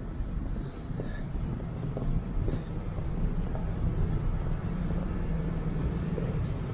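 Steady low rumble of street traffic, with a vehicle running nearby as a low hum through the middle.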